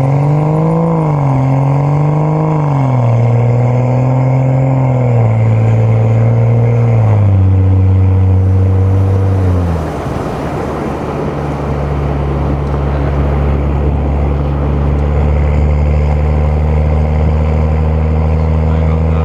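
BMW M235i's turbocharged N55 inline-six engine running while driving in snow: the revs climb about a second in, then step down in stages and fall away near ten seconds in, settling to a steady lower note.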